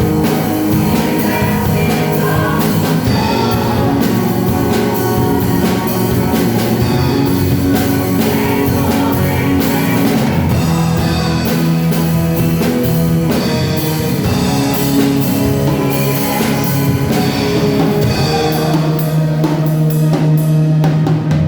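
Live worship band playing a praise song with drum kit and guitar, with some singing.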